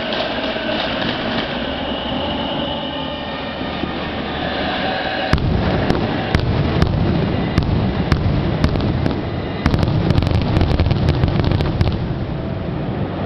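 Fireworks going off: a steady rumble of noise, then about five seconds in a string of sharp bangs and crackles begins, coming thickest and fastest near the end.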